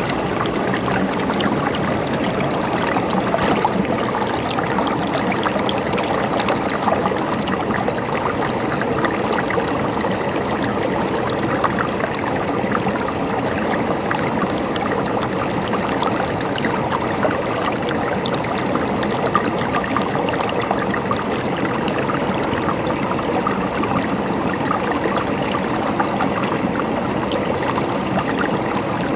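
Stream water flowing steadily, a continuous rushing trickle with many small splashes throughout.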